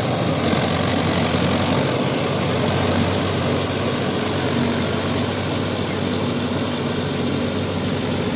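Mahindra Yuvo Tech Plus 585 DI tractor's diesel engine running steadily, with a constant hum and no change in speed.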